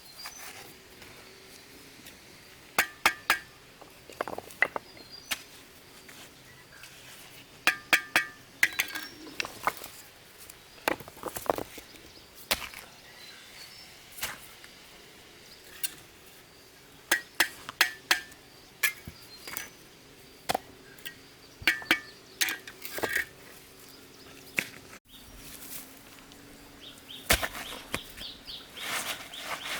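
Sharp clinks and knocks in short clusters, hard objects striking one another with a brief ring: the sound of stones being struck or set in place while building a stone wall.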